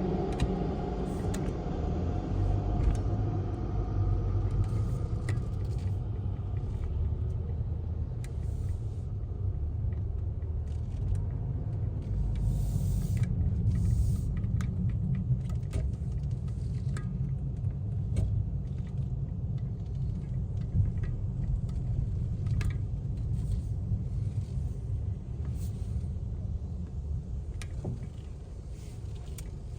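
A car's steady low rumble, engine and road noise heard from inside the cabin, with scattered light clicks.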